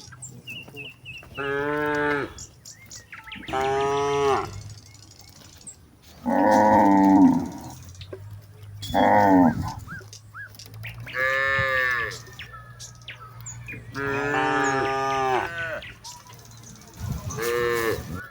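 Cattle mooing: about seven long moos one after another, a second or two apart, with a faint bird chirp near the start.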